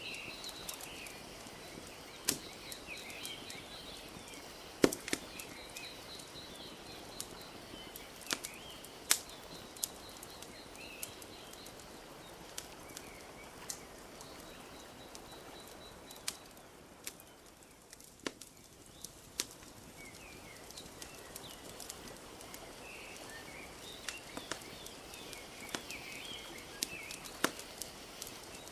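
Wood fire crackling, with sharp pops scattered every second or so and a few louder ones, over a soft steady wash of lapping lake water. Small birds chirp now and then, and the wash and chirps fade briefly a little past the middle.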